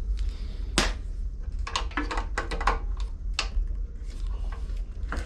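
Scattered clicks and clinks of hand tools and metal parts being handled on a small mower engine, with a cluster of sharp knocks between about two and three and a half seconds in, over a steady low hum.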